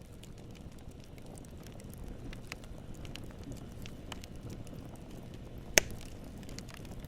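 Wood campfire burning: a low steady rumble of flames with scattered small crackles as the wood pops, and one sharp loud pop near the end.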